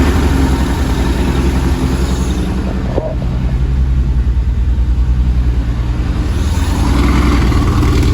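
Porsche 914's air-cooled engine idling just after a cold start, having sat unused for about six months. A steady, low, pulsing exhaust note that picks up slightly about seven seconds in.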